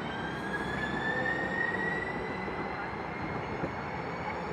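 A train running on the rails with a steady rumble, and a high whine that rises slowly in pitch over a few seconds.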